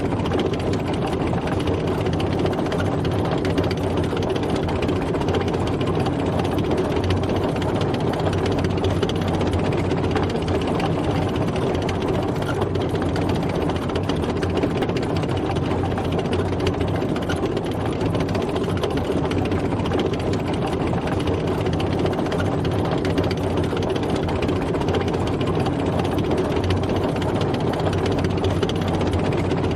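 Tank driving, its engine running steadily: one continuous, unchanging drone.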